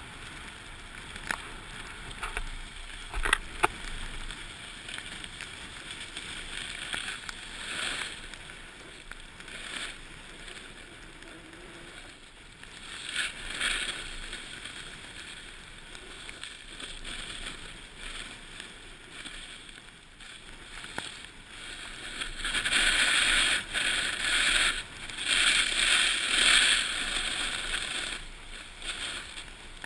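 Water splashing and sloshing, with louder surges of splashing about two-thirds of the way through.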